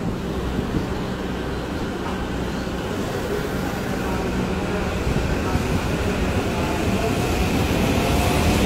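Subway train running, a steady rumble with faint hum that grows slowly louder.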